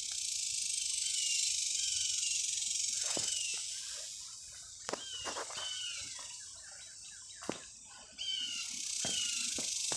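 Dense, high buzzing of insects, likely cicadas, as a steady hiss. It fades somewhat midway, breaks off sharply about eight seconds in and then starts again. Short falling bird chirps sound over it, and there are a few light clicks.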